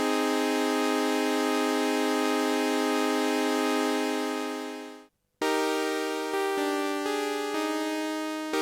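TSynth, a Teensy 4.1-based polyphonic synthesizer, playing one bright held note that fades out about five seconds in. After a short gap comes a run of single notes stepping up and down in pitch, each dying away.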